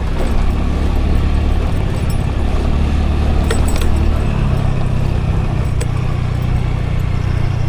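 Scooter engine running under steady road and wind noise as the scooter rides along, its low note shifting about halfway through. A few light rattling clicks come a little past the middle.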